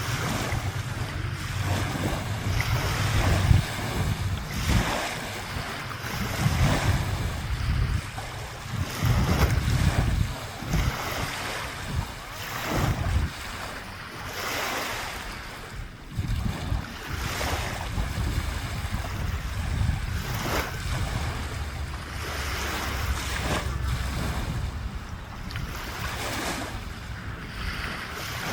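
Lake waves washing and splashing in repeated swells, with wind buffeting the microphone as a low rumble.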